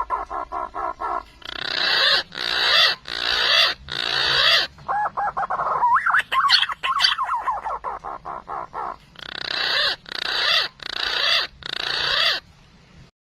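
Green pigeon (punai) calls: whistled gliding notes and rapid pulsed runs, each followed by a set of four loud rough notes, played twice. The calls stop shortly before the end.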